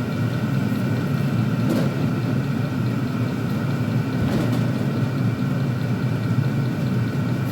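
Chinese diesel air heater running: a steady combustion rumble with a thin, even fan whine on top, and a couple of faint clicks.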